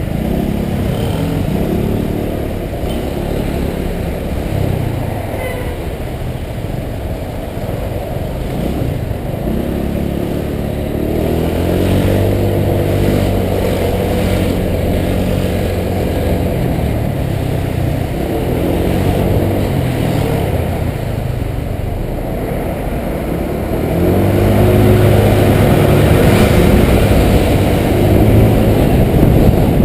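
Honda PCX 125 scooter's single-cylinder four-stroke engine running, its pitch rising and falling again and again as it speeds up and slows. It is loudest near the end.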